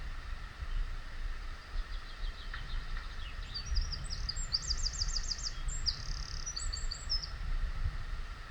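A small songbird singing: quick, high, repeated notes and trills that come in from about two seconds in and stop shortly before the end, over a steady low rumble on the microphone.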